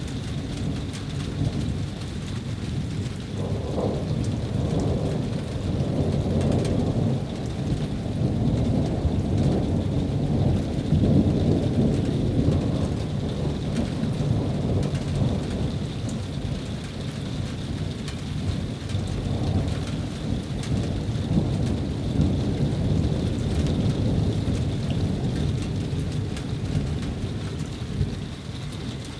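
Thunderstorm: long rolling thunder rumbling continuously, swelling and fading a few times, with rain falling.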